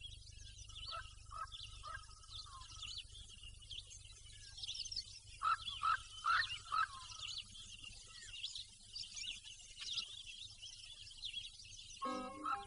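Faint birdsong: many small birds chirping and twittering, with a few louder calls in the middle. Music comes in near the end.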